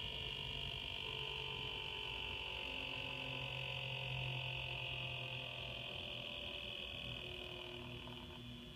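Swiftech PC water-cooling pump running with a steady high-pitched whine over a low hum, a noise the owner finds concerning. The whine sinks slightly in pitch and eases near the end.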